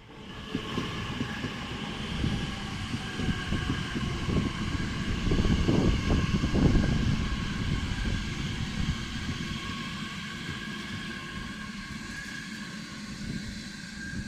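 Class 345 electric multiple unit pulling into the platform: wheels rumbling on the rails, loudest about six seconds in, under a steady high whine, one tone of which falls slightly at first.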